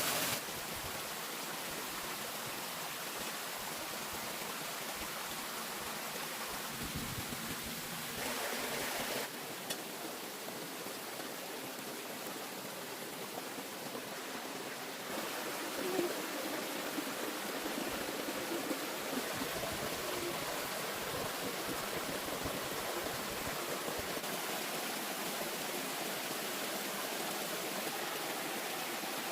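Steady rushing of flowing water, like a stream, with its level stepping up and down slightly a few times.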